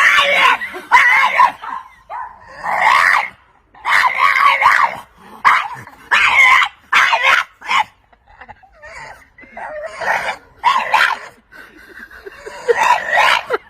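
Bulldog making a long series of drawn-out, wavering vocal calls, each about half a second to a second long with short pauses between.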